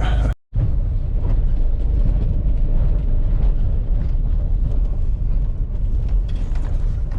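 Van engine and road noise heard inside the cab while driving, a steady low rumble. The sound cuts out completely for a moment just under half a second in.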